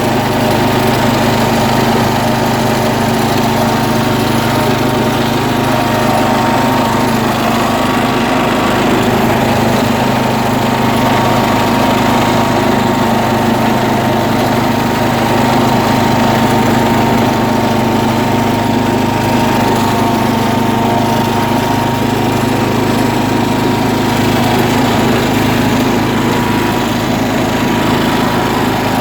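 John Deere tractor engine running at a steady, unchanging speed while the tractor drives through soft sand.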